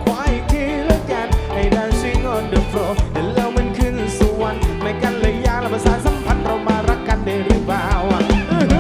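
Live band music: a drum kit keeping a steady beat under bass and a lead melody that bends and wavers in pitch.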